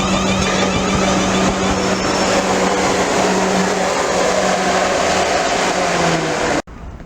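Train passing at close range: loud, steady running noise of wheels on rail with a steady low hum. The sound cuts off abruptly near the end.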